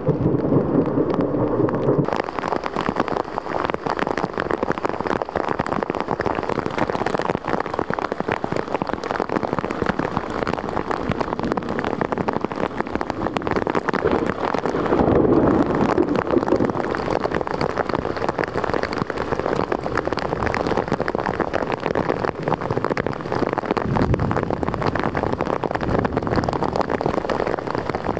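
Heavy rain pouring down, a dense patter of drops on hard surfaces, with a low rumble in the first couple of seconds.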